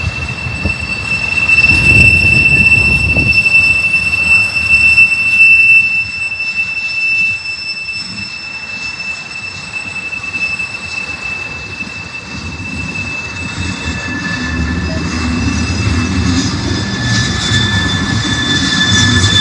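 Freight train rolling past with a low rumble and a steady high-pitched wheel squeal. Near the end a second, lower squeal takes over.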